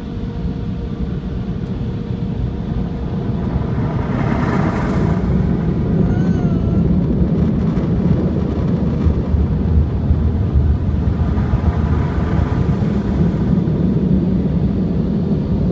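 Car wash air dryers blowing on the car, heard from inside the cabin: a steady low rush that grows louder about four seconds in.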